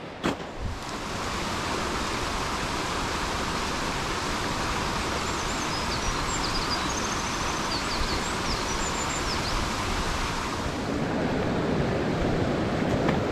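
Mountain stream water rushing steadily over rocks, a couple of small knocks in the first second, and faint high bird chirps now and then through the middle. About three quarters of the way through, the rush turns heavier and deeper.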